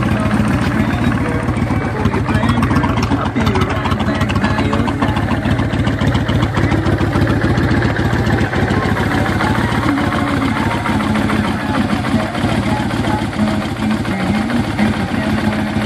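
A 2004 Kawasaki Nomad's V-twin engine idling steadily, with an even low pulse.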